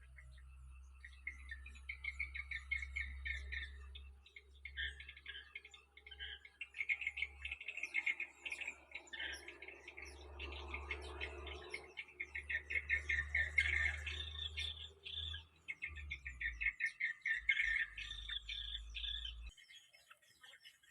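Bulbuls calling in repeated bursts of fast, stuttering chatter, over a low wind rumble that cuts off near the end.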